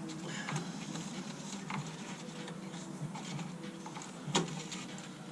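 Light clicks and rattles of hands handling a car's headlight housing, its bulb clip and rubber boot, with one sharper click about four seconds in, over a steady low hum.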